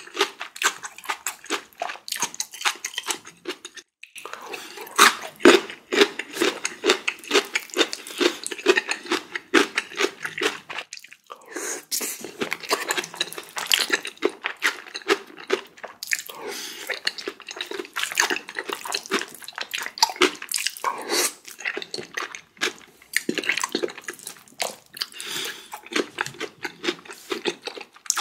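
A person eating close to the microphone: continuous wet chewing and smacking, with brief pauses about four and eleven seconds in.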